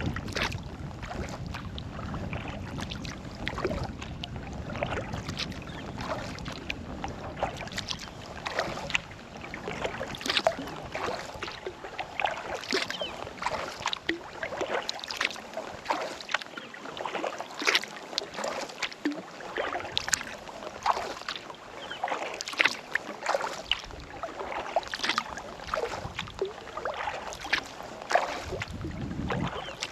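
Kayak paddle strokes dipping into calm lake water, with splashes and drips off the blade and a stronger stroke every couple of seconds. Low wind rumble on the microphone in the first several seconds.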